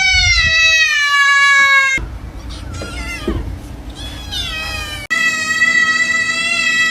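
Cat meowing in long drawn-out calls: the first falls slowly in pitch, and after a sudden cut about five seconds in comes one long, level yowl.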